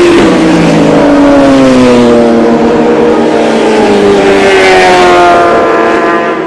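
Loud motor vehicle engine accelerating past, its pitch sweeping down over the first two seconds, then revving up again about four and a half seconds in.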